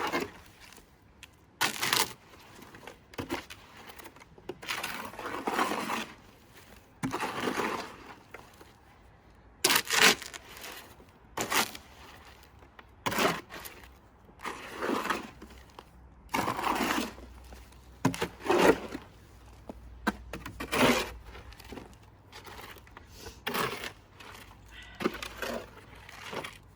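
Shovel scraping and chopping through wet cement mix in repeated strokes a second or two apart, some short and sharp, some longer scrapes.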